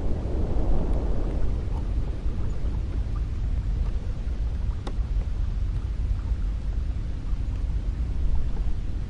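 Cold wind blowing with a deep, steady rumble; a gust swells at the start and dies away within the first second or two. A faint tick sounds about five seconds in.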